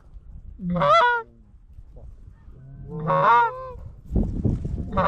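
Goose honks: three loud, clean honks about two seconds apart, each a low note breaking up into a higher one. Just after four seconds there is a short low rumble of handling or wind noise.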